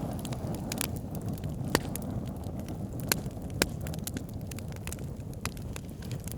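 Wood campfire burning: a steady low rush of flames with irregular crackles and sharp pops, a few louder snaps near the middle.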